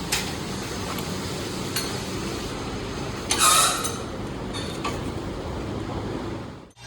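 Steady metal-workshop machinery noise with several sharp metal clinks, the loudest and longest about three and a half seconds in. The sound cuts off abruptly just before the end.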